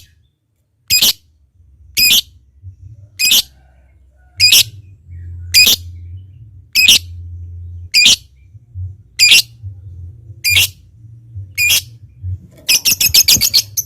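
Lovebird giving single short, shrill squawks at an even pace of about one a second, then breaking into a rapid run of chirps near the end.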